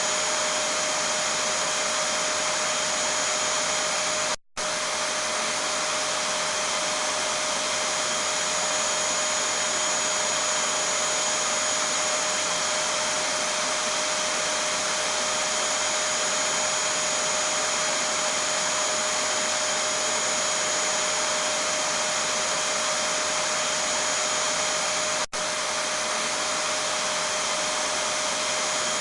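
Vacuum cleaner running steadily: an even rushing drone with a constant whine on top. It drops out abruptly for a split second about four and a half seconds in, then carries on unchanged.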